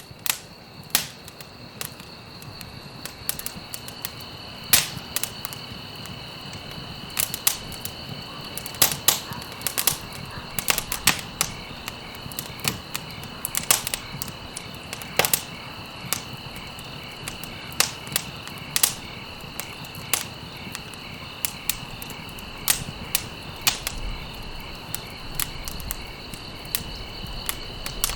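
Campfire of burning stalks crackling, with sharp irregular pops every second or so. Crickets chirp steadily underneath.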